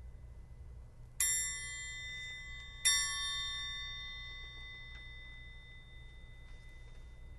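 Two struck chime notes about a second and a half apart, each ringing on and slowly fading, over a faint low hum.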